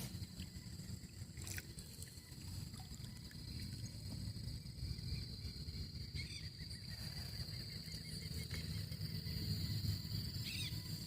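Outdoor waterside ambience: a steady high insect drone over a low rumble, with two brief chirps, about six seconds in and near the end.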